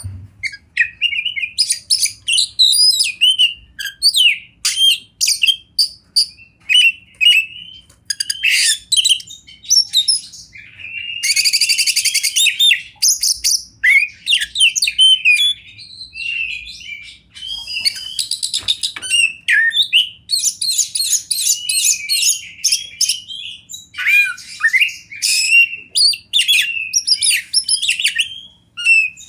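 Oriental magpie-robin singing a continuous, varied song of quick whistles and chirps, broken by harsh buzzy rattles about eleven and eighteen seconds in.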